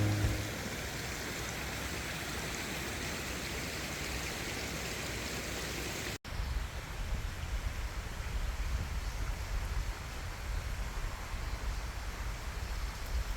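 Steady rushing outdoor hiss with no clear tone. It cuts off abruptly about six seconds in and gives way to a similar hiss over an uneven low rumble.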